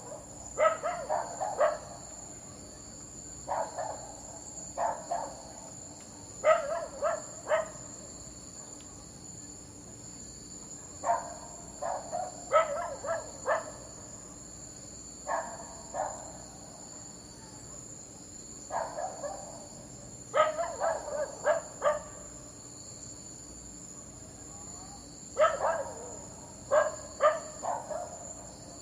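A dog barking in bursts of two to five quick barks, separated by pauses of a few seconds. A steady high chirring of insects, like crickets, runs underneath.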